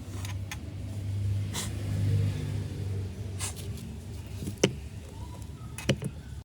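A low mechanical hum that swells about two seconds in and then eases off, with a few sharp clicks or taps near the end.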